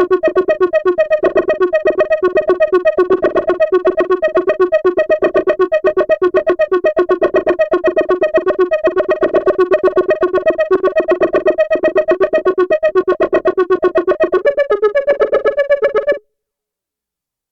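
Arturia's Buchla Easel software synthesizer playing a fast, evenly pulsing pattern of pitched tones. Near the end the tone shifts, then the sound cuts off suddenly.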